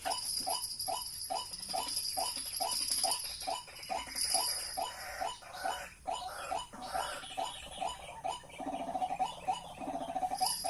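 White-breasted waterhen calling, a monotonous run of short repeated notes about three a second that merges into a longer drawn-out call near the end.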